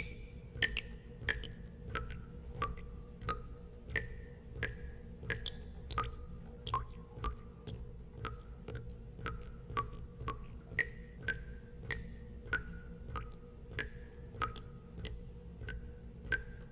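Water drops falling one after another into water at a fairly even pace of about one or two a second, each a sharp plink with a brief ringing note whose pitch differs from drop to drop, over a steady low hum.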